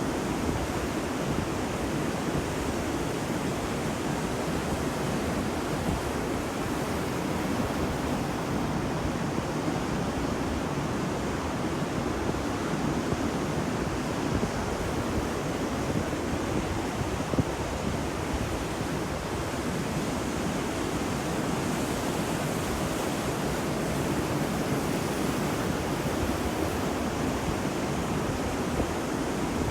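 Ocean surf on a beach: a steady, even rush of breaking and washing waves without distinct separate surges.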